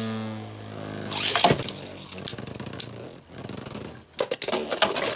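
Spinning Beyblade tops in a plastic stadium: a steady whir fades in the first half second, then sharp plastic clacks as the tops collide, with a quick cluster of hits about four seconds in.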